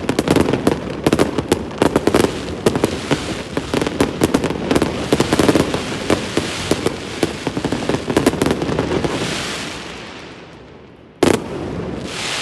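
Fireworks going off: a dense run of rapid bangs and crackling that dies away to a fading hiss. About eleven seconds in, one sharp, loud bang is followed by crackle.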